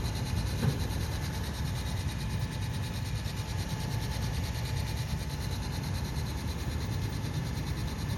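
New Hayward TriStar 950 pool pump running with an awful noise: a steady low rumble with a fine, rapid pulsing on top, and one brief knock just under a second in.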